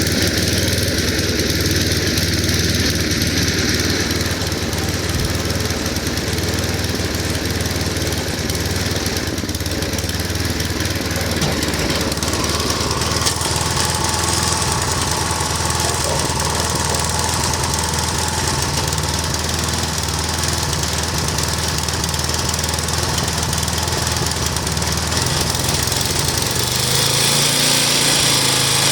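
Snowblower's gasoline engine running steadily under way after a cold start that needed the electric starter; its note rises near the end.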